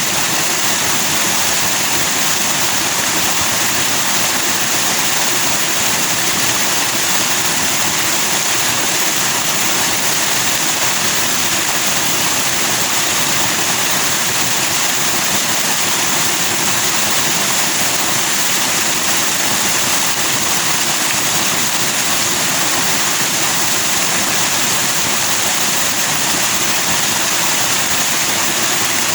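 Forest stream rushing over rocks in white foam: a loud, steady rush of water without a break.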